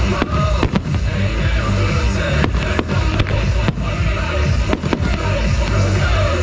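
Fireworks bursting in the sky, about eight sharp bangs at uneven intervals, over loud music with heavy bass.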